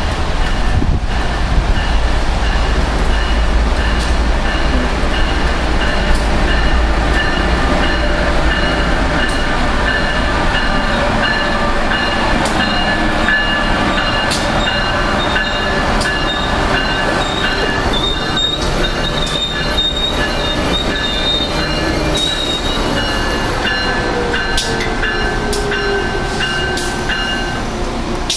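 Amtrak train hauled by an AEM-7 electric locomotive rolling into the station. There is a heavy rumble at first, then steady high-pitched wheel and brake squeal with clicks of wheels over rail joints. Near the end a lower tone falls in pitch as the train slows to stop for boarding.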